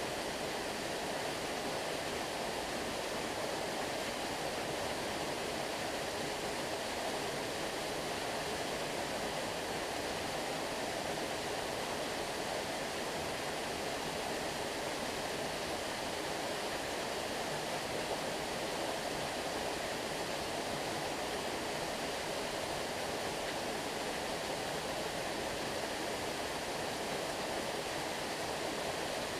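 A stream of flowing water, a steady unbroken rushing.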